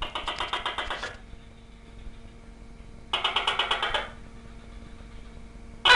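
Tokay gecko calling: two rattling bursts of rapid clicks, each about a second long and a couple of seconds apart, then near the end the loud first syllable of its "to-kay" call.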